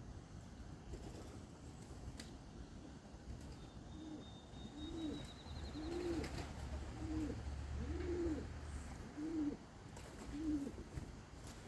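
Domestic pigeon cooing: a run of short, low, rising-and-falling coos, about one every second, starting about a third of the way in.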